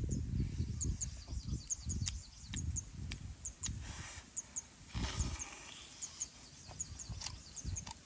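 Close-up eating sounds from a man chewing and biting into spicy roasted frog: repeated soft chewing with occasional sharp crunches. Short high chirps repeat in the background.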